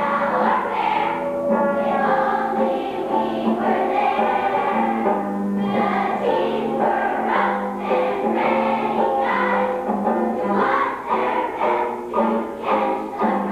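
Choir singing a song with accompaniment, the voices held in long sustained notes.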